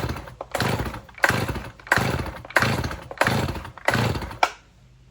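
Stihl MS 310 chainsaw's recoil starter pulled again and again, about seven quick pulls, the engine cranking over without firing; the pulls stop about four and a half seconds in. The pulls show the engine has strong compression, though the saw runs poorly.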